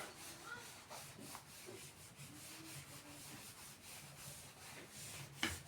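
Faint scratching and rubbing of writing strokes, with one sharper tap about five and a half seconds in.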